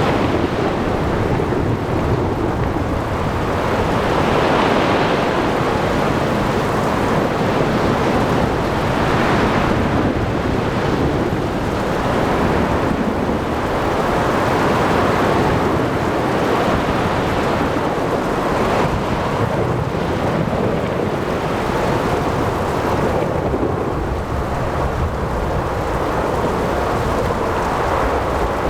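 Ocean storm ambience: a continuous rush of wind, rain and breaking waves that swells every few seconds, over a steady low rumble of thunder.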